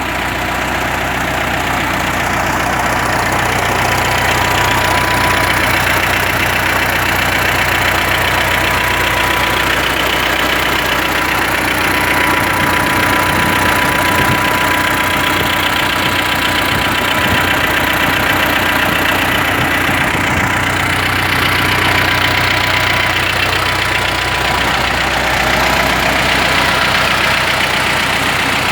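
T-40 tractor's diesel engine idling steadily, freshly started after winter storage and running normally.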